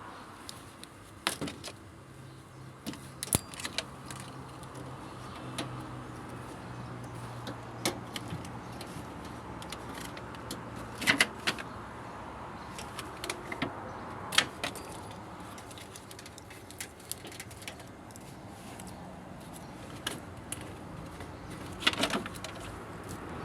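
Scattered sharp metallic clinks and taps of tools and parts being handled, loudest in a cluster about halfway through and again near the end. A faint low hum runs under the first half.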